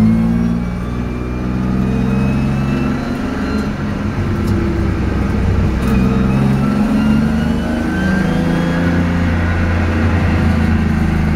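BMW E30's M50 straight-six engine heard from inside the cabin under track driving, the revs climbing and then dropping several times as the car shifts or lifts off for corners.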